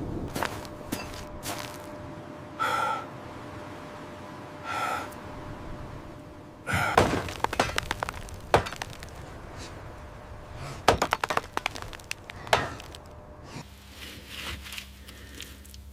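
A series of sharp cracks and knocks, coming in quick clusters. Two short squeaky creaks sound in between, and a low steady hum sets in near the end.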